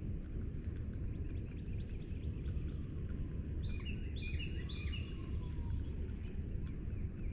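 Small birds chirping in a few quick runs of short, downward-slurred notes, bunched about three and a half to five seconds in, over a steady low rumble.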